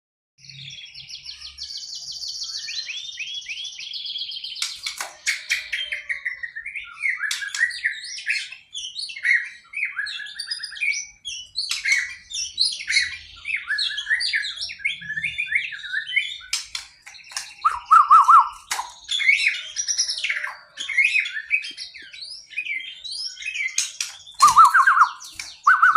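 White-rumped shama singing a long, varied song of quick whistled, trilled and chattering phrases, with sharp clicks scattered between them.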